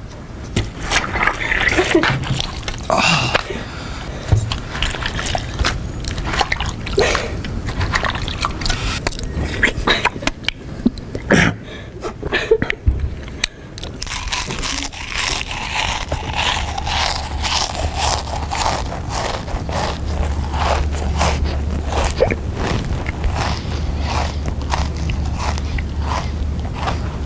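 Loud, exaggerated chewing and biting of a person eating noisily: wet watermelon bites in the first half, then more chewing and smacking with many short crunches and clicks. A steady low hum sits under the second half.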